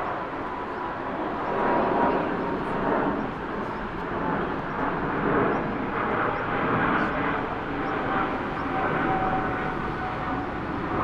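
Jet airliner's engines passing: a steady rush with a thin whine that slowly falls in pitch.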